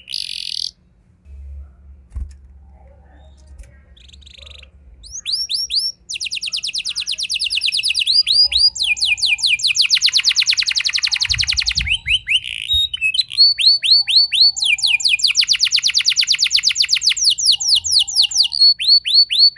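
Domestic canary singing rolling song: long, fast trills of rapidly repeated down-slurred high notes, one run giving way to the next. It starts after a few quiet seconds near the beginning.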